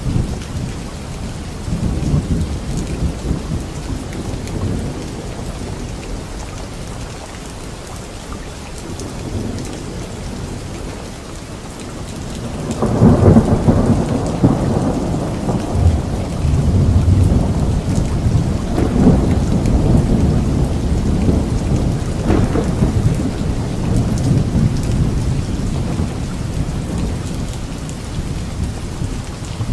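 Steady rainfall with thunder. Low rumbles come in the first few seconds, then a loud thunderclap about halfway through rolls on in long, low rumbling that slowly fades near the end.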